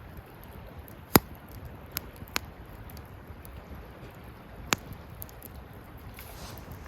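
Wood fire burning: a low, steady rush under sharp crackling pops of burning wood, the loudest about a second in and three more scattered through.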